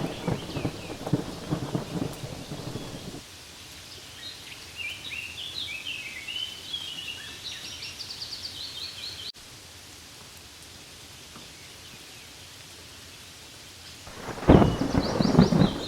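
Steady rain falling, with deep rolling rumbles of thunder for the first three seconds and again near the end. In the quieter middle, short high chirping calls sound over the rain hiss.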